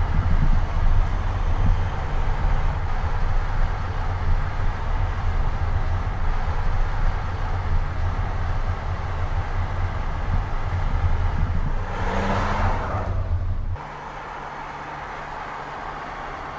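Audi RS 4 Avant's twin-turbo V6 driving: a heavy, dense engine and exhaust rumble. About three quarters of the way through a brighter rushing swell rises, then the sound cuts off abruptly to a quieter, steadier engine drone.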